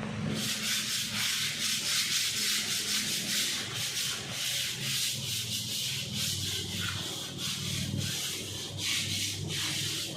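Hand sanding of hardened body filler on a car panel: quick back-and-forth rasping strokes, about two to three a second.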